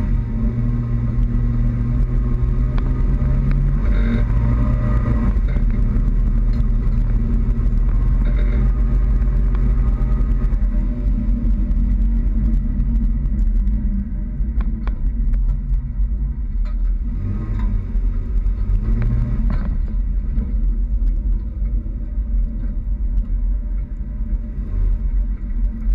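Toyota Tacoma pickup driving through snow: a steady low rumble of engine and road noise. The engine note is strongest in the first several seconds and eases off about ten seconds in.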